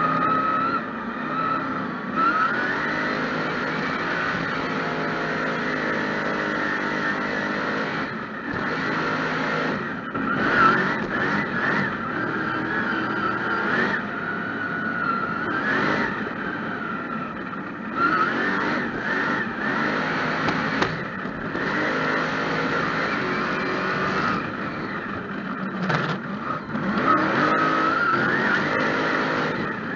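Mega truck's engine heard from on board, revving hard and repeatedly. Its pitch rises and falls with several brief drops and surges in power.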